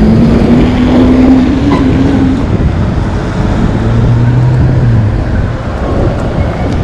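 Wind rushing over the microphone with road traffic around it. A steady engine hum stands out in the first two seconds, and a lower one comes about four seconds in.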